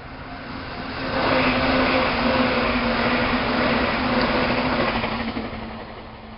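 A Meitetsu Panorama Super limited express train passes at speed: a loud rush of wheel and running noise with a steady motor hum, swelling about a second in and fading after about five seconds. A repeating warning tone beeps faintly before and after the pass.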